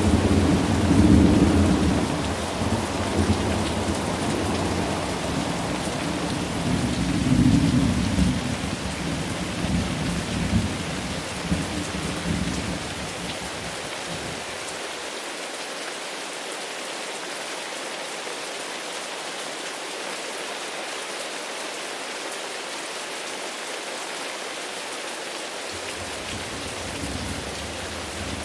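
Steady heavy rain with rolling thunder. Deep rumbles swell about a second in and again about seven seconds in, then die away before the halfway point, leaving only the hiss of the rain. A new thunder roll starts at the very end.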